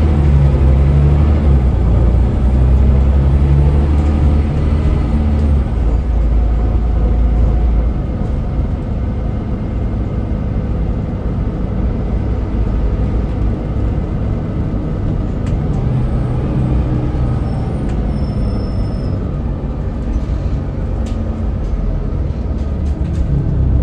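Scania L94UB city bus's diesel engine running, loud and pulling for the first few seconds, then quieter from about eight seconds in. A few light clicks come near the end.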